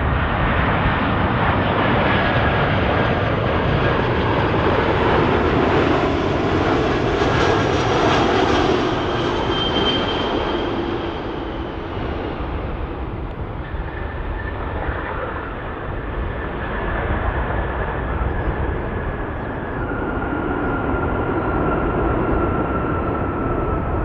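Large jet airliner's engines on its landing approach, passing close by: a steady rush of engine noise with a whine that slides down in pitch as it goes past, loudest around the middle and easing a little afterwards.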